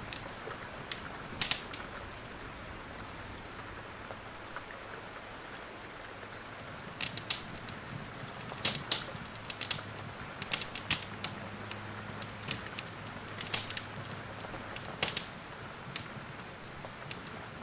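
Wood fire crackling in a fireplace, with irregular sharp pops that come more often in the second half, over a steady hiss of rain and a faint low hum.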